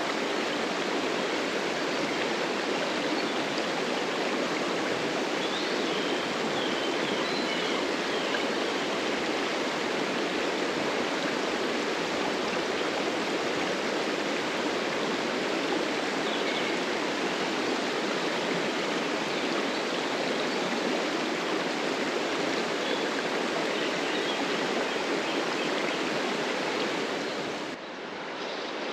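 Steady rushing of a flowing stream, with a few faint high chirps a few seconds in; the rush drops off abruptly near the end.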